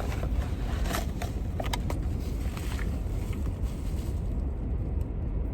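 Steady low rumble inside a parked car, with a few light clicks and rustles in the first two seconds as a small plastic phone car mount is handled.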